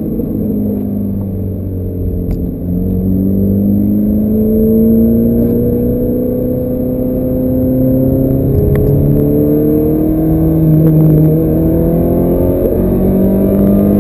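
Ferrari F430's V8 engine pulling under acceleration on track. Its note climbs slowly and drops back in pitch a few times as it changes gear.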